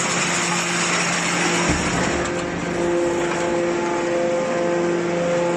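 Hydraulic scrap-metal baler running: a steady, droning machine noise with a constant hum, over a dense mechanical din.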